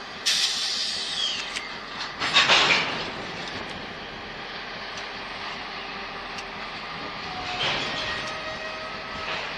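Canadian Pacific diesel locomotives rolling slowly on the rails during shunting. A sudden high screech that falls in pitch comes about a third of a second in, and a loud burst of noise comes about two and a half seconds in, over a steady rumble.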